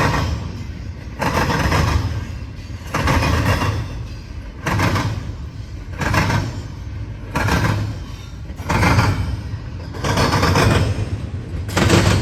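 Intermodal freight cars rolling past, their wheels clattering over the track in a regular rhythm, a burst about every second and a half over a steady low rumble.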